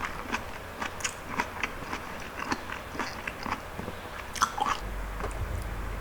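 Close-miked chewing of palm fruit (sea coconut) with passion fruit juice: wet, sticky mouth sounds with many small crisp crunches, a few a second. The chewing stops about five seconds in and a steady low hum comes in.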